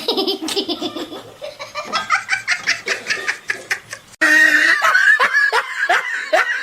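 Laughter in quick repeated bursts; about four seconds in it cuts suddenly to a louder, higher-pitched bout of laughing.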